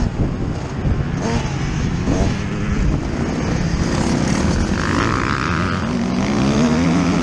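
Yamaha YZ125 single-cylinder two-stroke motocross engine, heard on board, revving up and down repeatedly as the throttle opens and closes.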